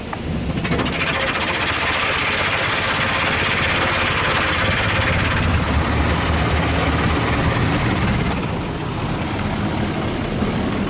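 Ryko Softgloss Maxx automatic car wash spraying water over the car, heard from inside the car. A loud hiss of spray starts about half a second in over a low machine rumble, and eases near the end.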